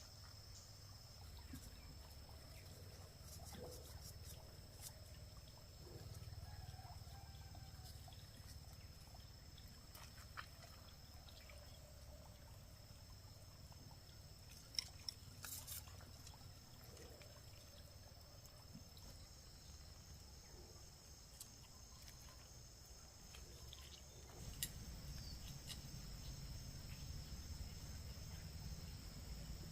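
Near silence: faint background with a steady high hum and scattered small clicks and knocks, one a little louder about fifteen seconds in.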